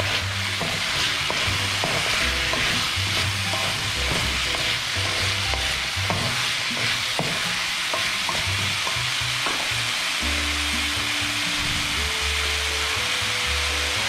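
Diced taro sizzling as it fries in oil in a metal wok, stirred and scraped with a wooden spatula, with frequent light knocks of the spatula against the pan.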